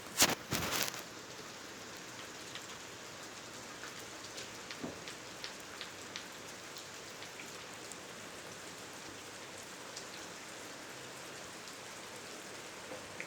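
A steady hiss dotted with faint scattered ticks, with a loud burst of rustling noise within the first second.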